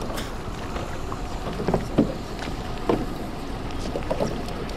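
Wind buffeting the microphone in a rowing boat on the water, with several short knocks about two, three and four seconds in.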